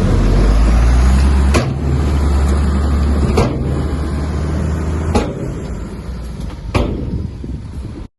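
Bulldozer's diesel engine running under load, with four sharp clanks about a second and a half apart. The engine eases off about two-thirds of the way through, then the sound cuts off suddenly near the end.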